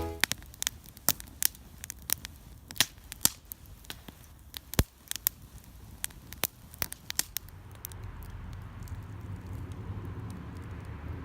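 Wood fire crackling, with irregular sharp snaps and pops. About eight seconds in, a steady rushing noise takes over and the snaps thin out.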